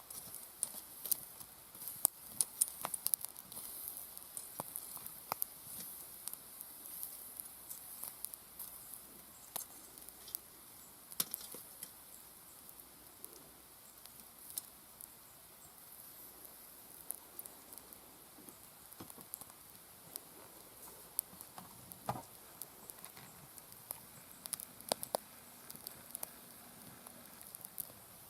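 Wood fire in a fire pit crackling, with irregular sharp pops over a steady high hiss; the pops come thickest in the first few seconds.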